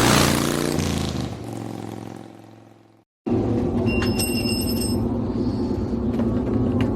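A racing motorcycle passing at speed: loudest at the start, its engine note drops as it goes by and fades away over about three seconds. After a sudden cut, a steady engine drone takes over.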